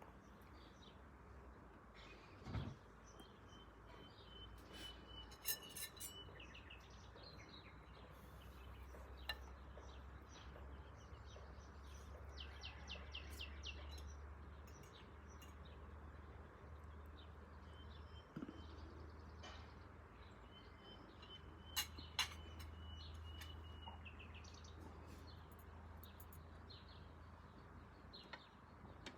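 Small birds chirping and trilling on and off over a faint, steady low rumble. A few sharp knocks sound about two and a half seconds in, around five seconds in and around twenty-two seconds in.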